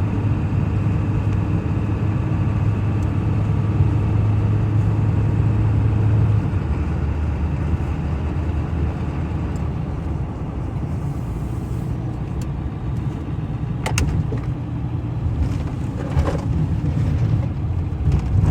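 Pickup truck engine heard from inside the cab, pulling away from a stop: a steady low engine hum that drops in pitch about six seconds in. A few light knocks come near the end.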